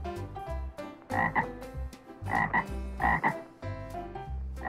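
Frog croaking: three calls, about a second in, about two and a half seconds in and just after three seconds, each a quick double croak.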